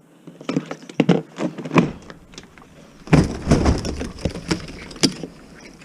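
Scattered knocks and clicks of hard parts being handled while a washing machine is stripped for scrap, with a heavier burst of clatter about three seconds in.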